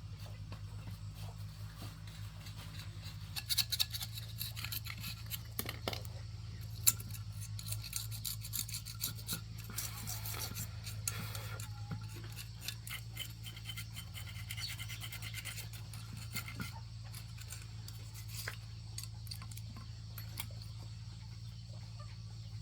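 Irregular scraping and scrubbing with many light clicks, over a steady low hum.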